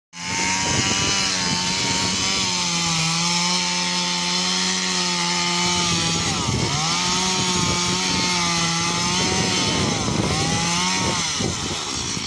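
Two-stroke chainsaw running at high revs while cutting trees. Its pitch sags briefly a few times as the chain bogs down in the wood.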